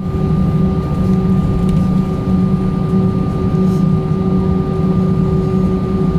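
Steady droning cabin hum of a British Airways Airbus A319 before takeoff, with a few steady whining tones over it.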